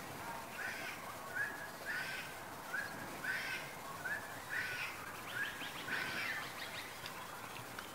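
A bird calling over and over, short rising notes alternating with fuller, higher notes at about two a second, with a quick rattling trill near the end.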